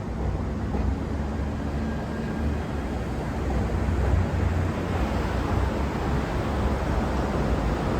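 A train running past at low speed: a steady low rumble with a faint hum, growing slightly louder about halfway through.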